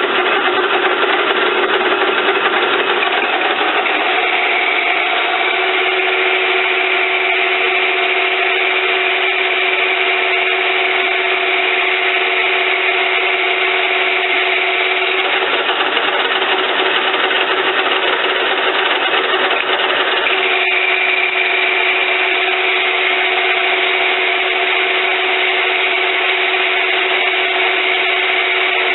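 Stanko 1K62 lathe running, cutting a steel part: steady machine noise with a high whine that fades out about fifteen seconds in and comes back about five seconds later.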